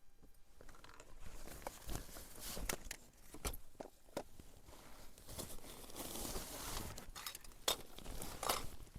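Close rustling and crinkling, with scattered sharp clicks and crunches, as things such as a jacket or gear are handled and moved; the rustling thickens in the second half.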